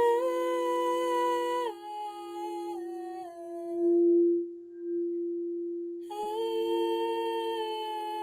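A woman's voice singing long, wordless held notes over a steady drone tone. The first phrase steps down in pitch and fades out about three seconds in, and a second long note comes in about six seconds in.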